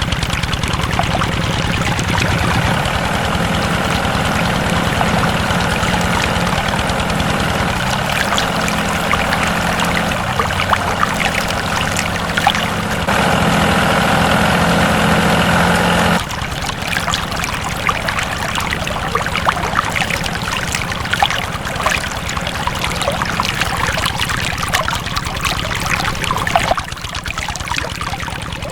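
A small motor running steadily with a fast rhythmic drone. About halfway through, the sound cuts abruptly to water pouring and trickling.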